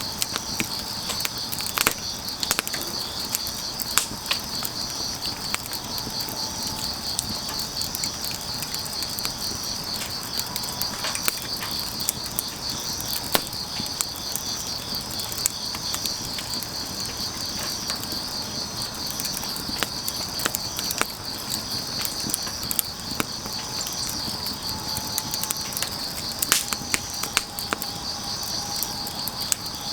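Wood fire crackling with scattered sharp pops, over a steady high-pitched chirring of crickets or other field insects that pulses finely without a break.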